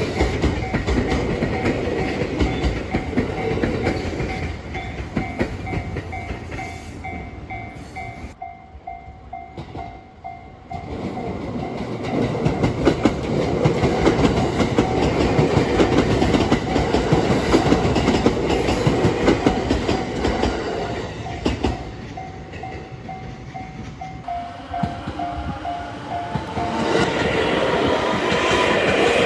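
Japanese level-crossing warning bell ringing in a fast, even repeat while trains pass, wheels clattering over the rail joints at the crossing; the rumble and clatter swell loudest in the middle. The bell stops near the end as the next train's rumble rises.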